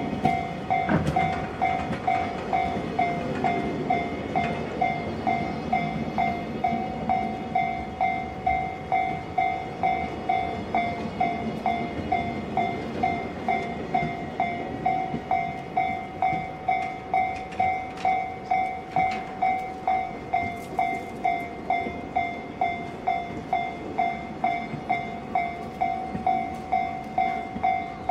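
Container flatcars of an EH500-hauled freight train rolling past with a steady rumble and wheel clatter. Over it, a ringing alarm dings steadily a little under twice a second, and this is the loudest sound.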